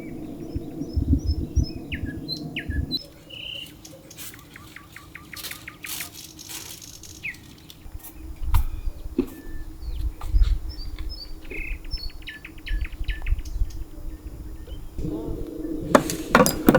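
Small birds chirping and tweeting in short high notes, with scattered clicks and knocks and a low hum at the start and near the end.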